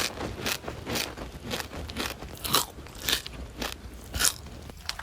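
A person chewing and biting into a siopao, a filled steamed bun, close to the microphone: irregular mouth and chewing noises, roughly one every half second to a second.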